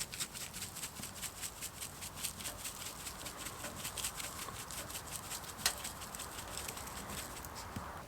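Cooking oil being rubbed onto a raw sirloin steak by hand: a steady run of quick, soft wet clicks, several a second, with one sharper click a little past the middle.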